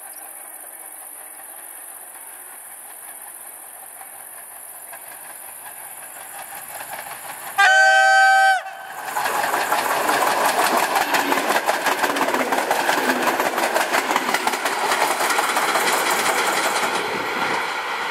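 EN57 electric multiple unit approaching and sounding its horn once, a chord lasting about a second, then passing close with loud, rapid wheel knocking and rail clatter that eases off near the end. The hard knocking is the sign of wheel flats on the unit, a "shod" (podkuty) set of wheels.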